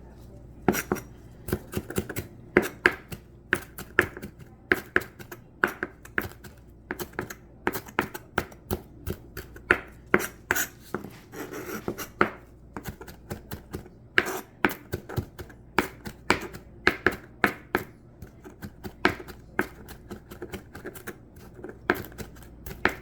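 Kitchen knife chopping fresh dill on a cutting board: a steady run of sharp knocks, a few a second, broken by short pauses.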